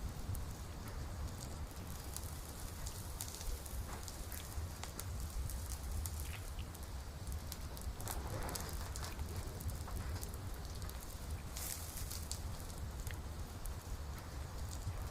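Campfire burning: wood crackling with many small sharp pops over a steady low rumble, with a short hiss just past halfway.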